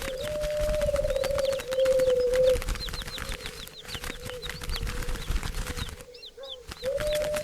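A flock of birds calling: many quick, high, falling chirps over a dense patter of clicks and fluttering, with a long, low, held call lasting about two and a half seconds at the start that begins again near the end.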